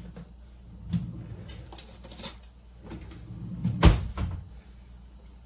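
Cookware and utensils being handled on a kitchen counter: a few separate knocks and clatters, the loudest thump about four seconds in.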